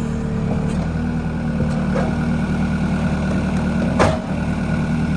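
Pickup truck engine running steadily, with one sharp knock about four seconds in.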